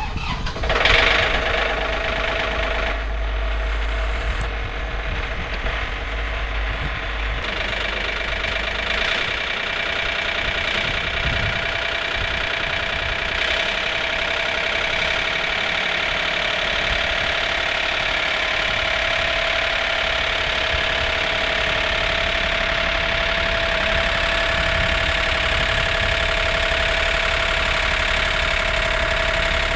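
Compact tractor's engine starting and then running at a steady idle as it warms up in the cold. It is loudest about a second in, then holds an even, unchanging note.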